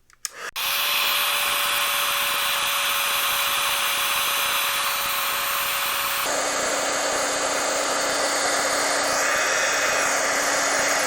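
Embossing heat tool (hot-air gun) switched on about half a second in and running steadily with a blowing hiss and a held whine, whose pitch drops suddenly about six seconds in. It is melting black embossing powder to set it.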